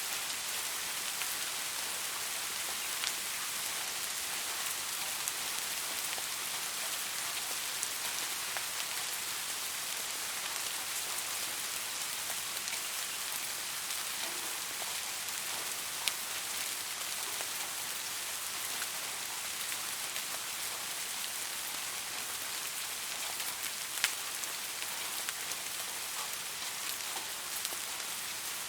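Steady rain falling, an even hiss with scattered individual drops ticking sharply, one louder drop hit about 24 seconds in.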